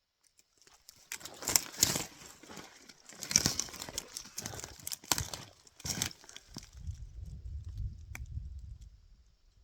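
Footsteps crunching through dry brush and forest litter, several separate crunchy steps about a second apart, then a low rumble lasting about two seconds near the end with one sharp click.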